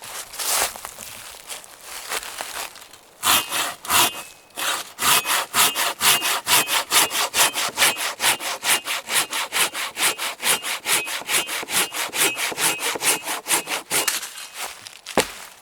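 Hand saw cutting through wood: two separate strokes, then a long run of quick, even back-and-forth strokes, about four a second, that stops shortly before the end.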